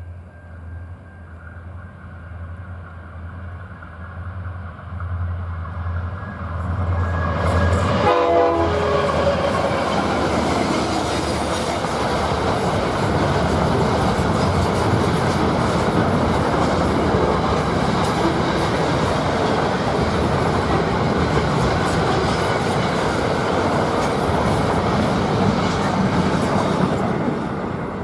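Diesel-hauled train passing: a steady low locomotive engine drone grows as it approaches, a short horn note sounds about eight seconds in as the locomotives go by, then the cars rumble and clatter along the rails for about twenty seconds before dropping away near the end.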